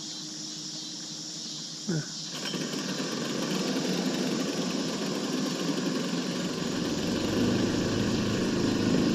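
A small boat mud motor starts about two seconds in with a short sharp sound, then runs with a rough, even engine noise that grows steadily louder. Crickets chirp in the background.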